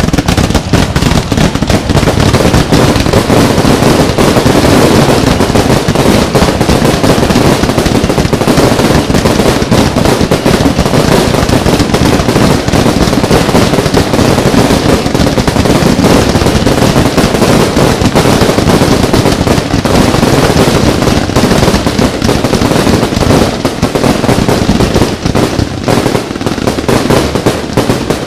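Fireworks finale barrage: many aerial shells and crackling effects going off in continuous rapid succession with no pause between bursts, very loud.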